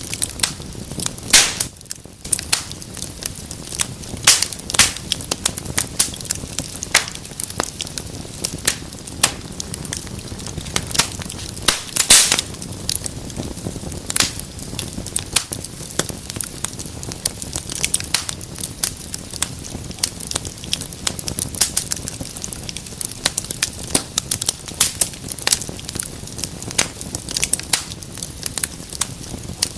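Wood fire burning in a fireplace, crackling steadily with irregular sharp pops and snaps. A few louder pops stand out, one just over a second in and one about twelve seconds in.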